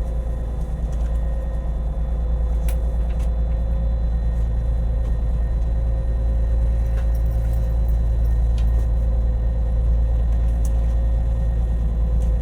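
Marine engine machinery running steadily: a deep, constant rumble with a steady hum over it and a few faint ticks.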